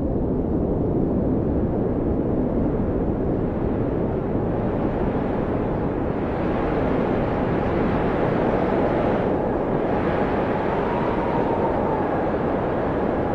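Blizzard wind rushing steadily, with a deep rumble and a faint whistling howl that rises and falls in pitch.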